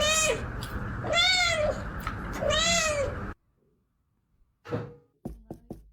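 A cat meowing three times, loud drawn-out meows that each rise and fall in pitch, over a background noise that cuts off suddenly after about three seconds. A short call and a few light knocks follow near the end.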